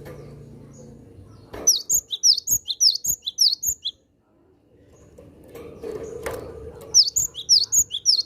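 Cinereous tit (gelatik batu) calling: two bouts of rapid, high, repeated down-slurred notes, about five a second, the first starting about a second and a half in and the second about seven seconds in.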